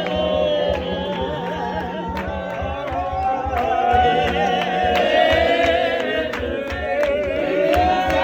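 Music: several voices singing together over a beat.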